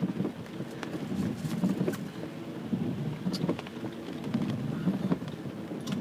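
Low rumbling noise inside a car, with scattered light taps and clicks.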